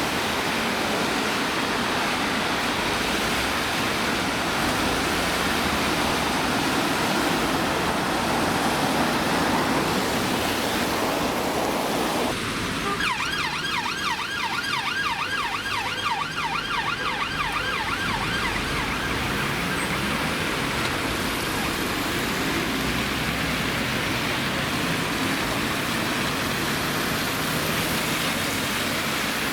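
Steady hiss of heavy rain and wet-road traffic. Roughly halfway through, a UK emergency vehicle's siren sounds for several seconds in fast, repeating yelping sweeps.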